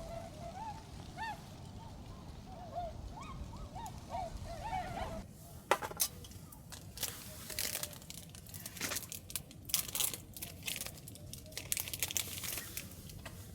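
Swans honking, a run of short rising-and-falling calls. About five seconds in, these give way to a run of sharp clicks and crackles.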